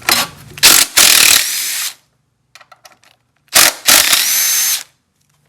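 Power tool run in two bursts, each a few short trigger pulls followed by a longer run that ends in a rising whine, as it works the fasteners holding the air pump on a Type 4 VW engine.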